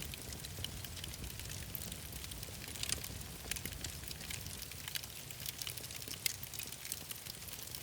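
Wood fire crackling in a fireplace: scattered sharp pops and snaps over a low, steady rumble of the burning logs.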